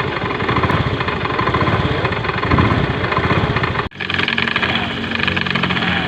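Automatic scooter engine running, with the rough, harsh noise coming from its CVT. The sound drops out for an instant about four seconds in and then comes back steadier.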